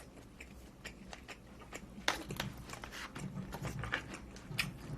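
Close-miked chewing and biting, with many small wet mouth clicks while someone eats.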